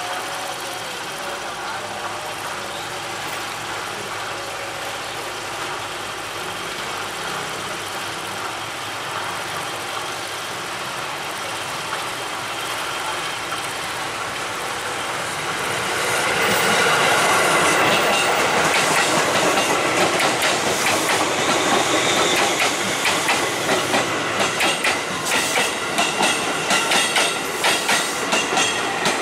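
JR 205 Series electric commuter train approaching and passing close by: a steady running sound that grows louder from about halfway, then a rhythmic clickety-clack of its wheels over the rail joints through the last several seconds.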